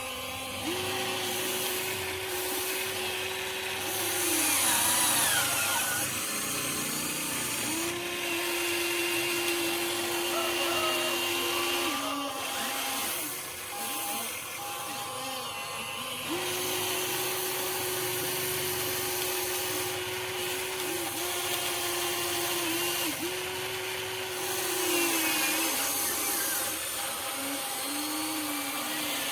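Huina 1593 RC excavator's electric motors whining in runs of a few seconds, starting and stopping again and again as the machine works.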